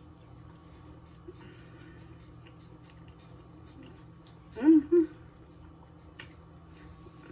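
A person eating spaghetti, chewing quietly with faint small clicks, and a short two-part hum of the voice, like an "mm-mm" of enjoyment, about four and a half seconds in.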